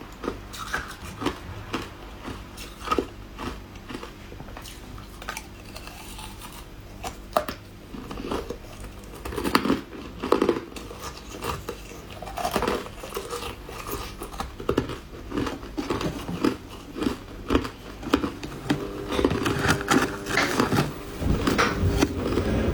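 Hard ice being bitten and chewed: irregular sharp cracks and crunches close to the microphone, coming thicker in the second half.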